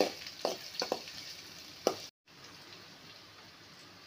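Diced carrots and green chillies sizzling in hot oil in a kadai, with a metal spatula scraping and knocking against the pan a few times in the first two seconds. The sound cuts out briefly about two seconds in, then a quieter sizzle carries on.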